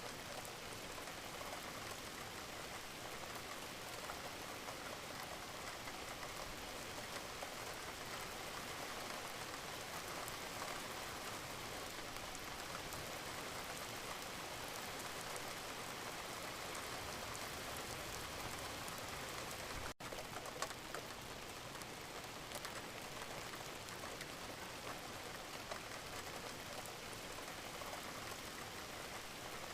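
Wood fire in a fireplace crackling and hissing steadily, with many small snaps, and a momentary dropout about twenty seconds in.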